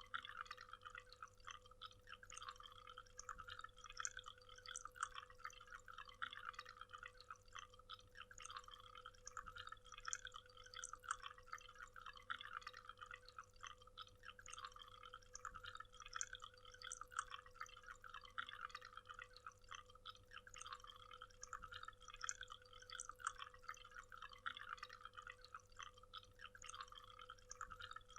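Waterfall: water splashing and trickling as a dense, uneven spatter of small splashes, faint and continuous, with a thin steady hum beneath it.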